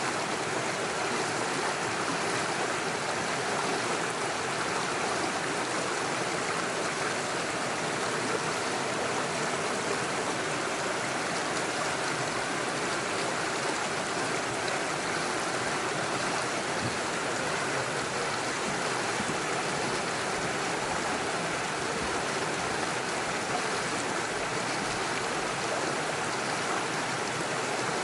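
Small stream running steadily over stones with small waterfalls: an even, unbroken rush of water.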